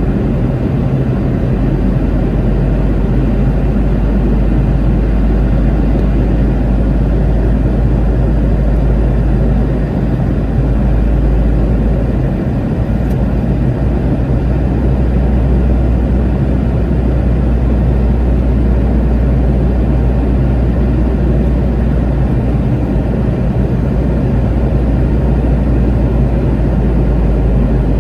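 Cabin noise inside a Boeing 717 airliner on approach: the steady drone of its tail-mounted Rolls-Royce BR715 jet engines mixed with airflow rumble, deep and unbroken.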